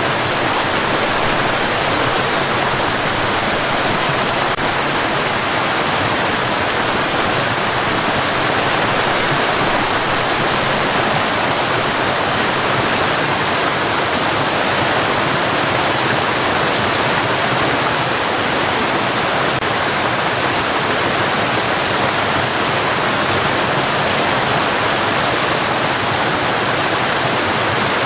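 Steady white noise for lulling a baby to sleep: an even, unbroken hiss that holds one level throughout.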